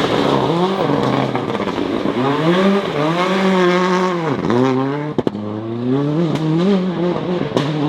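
Rally car engine revving hard, its pitch climbing and dropping again and again as it goes up and down the gears. About five seconds in it lifts off sharply with a couple of cracks from the exhaust.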